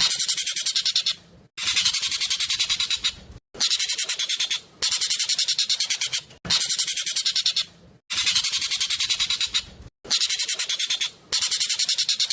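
Jovin (Asian glossy starling) singing loudly in fast, tight bursts: each burst is a rapid string of sharp high notes lasting about a second and a half, repeated again and again with short pauses between.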